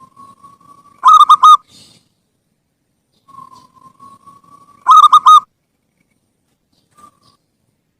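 Zebra dove (perkutut) cooing: a soft drawn-out note rising into three loud, quick coos, sung twice about four seconds apart.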